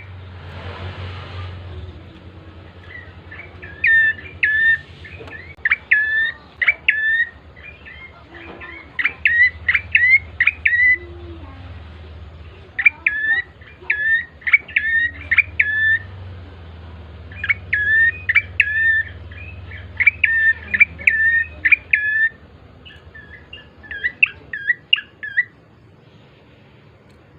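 Prenjak coki (red-headed prenjak) singing short bursts of rapid, sharp, high chattering notes, each burst lasting about a second, repeated with short gaps and stopping near the end. This is a lure song meant to set other prenjak singing. A low steady hum runs underneath.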